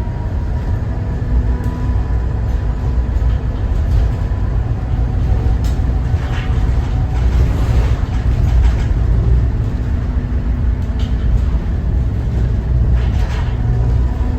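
Thomas Saf-T-Liner C2 school bus under way, its Cummins ISB 6.7 diesel running steadily under a heavy low rumble, with a few short rattles and clicks.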